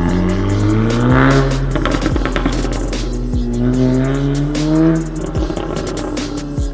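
VW Golf 7.5 R's turbocharged 2.0-litre four-cylinder accelerating hard through its ARMYTRIX straight-piped valvetronic exhaust: the engine note climbs, drops at a gear change about a second in, climbs again, then falls away as the throttle is lifted about five seconds in. Music plays underneath.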